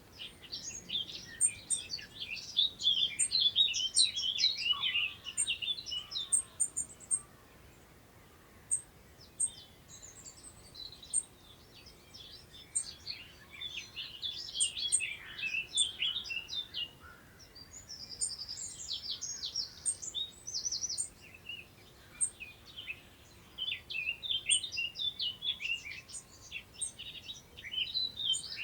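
Songbirds singing in fast, twittering bouts of high notes, with quieter stretches of a few seconds between bouts and short high chips repeated throughout. Under them is a faint, steady hiss of wind in long grass.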